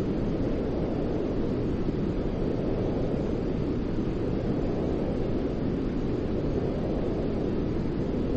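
Continuous, steady white noise for a baby's sleep, deep-toned rather than hissy: an even rushing sound with no breaks or changes.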